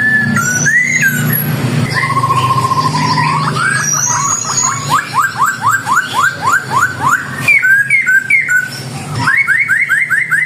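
A caged songbird singing varied whistled phrases, including a quick run of about a dozen rising notes in the middle and short rising notes near the end. A low steady hum lies under the first two seconds.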